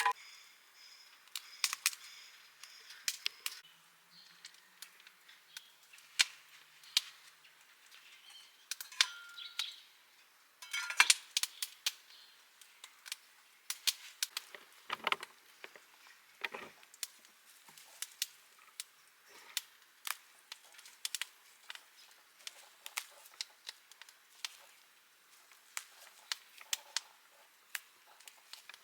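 Wood fire crackling, with many irregular sharp pops and snaps of varying loudness.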